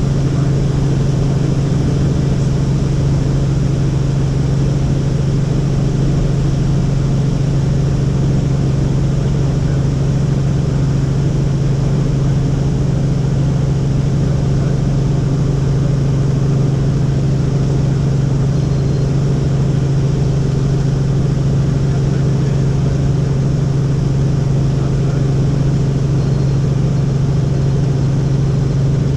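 Helicopter in flight: the steady, loud drone of its engine and rotors, holding one low pitch with no change throughout.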